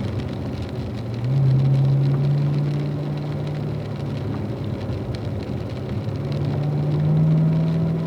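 Car engine under load on a wet track. It gets louder about a second in, eases off around four seconds, then builds again with its pitch climbing slightly near the end, over a steady hiss of tyres on water.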